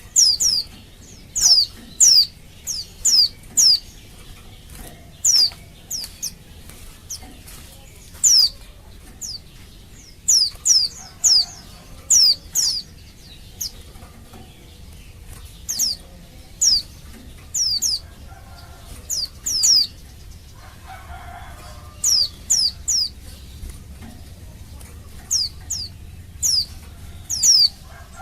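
Female white-eye (pleci) calling: short, high, downslurred chirps, given in pairs and quick runs of three or four with short pauses between, repeated throughout. It is the excited call that prompts male pleci to answer and sing.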